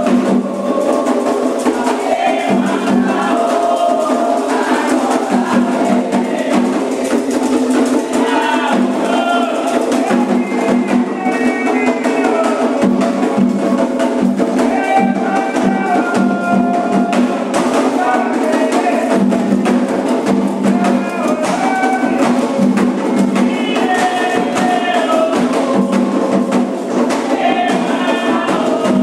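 Candomblé ritual music: atabaque hand drums and other percussion playing a continuous dense rhythm under group singing of chants.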